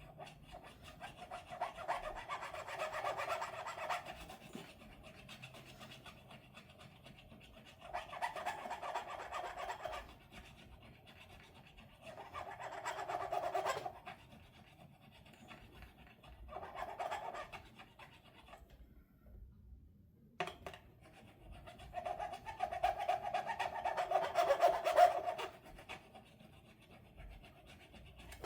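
Fret ends on a guitar neck being dressed and rounded by hand, rough rubbing strokes in five spells with pauses between them, the longest and loudest near the end.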